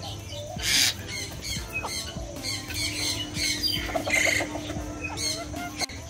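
Birds at close range calling in many short chirps, with a louder, noisier call just under a second in and another about four seconds in.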